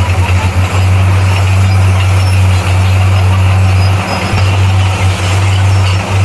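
A bulldozer's diesel engine runs steadily with a loud low drone that dips briefly a few times, over a dense wash of mechanical noise.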